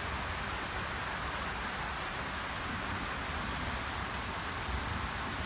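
Heavy rain falling steadily in a thunderstorm, an even hiss of rain on surfaces.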